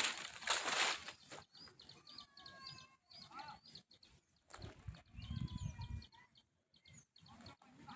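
Small birds chirping and whistling in short calls. A brief low rumble on the microphone comes about five seconds in.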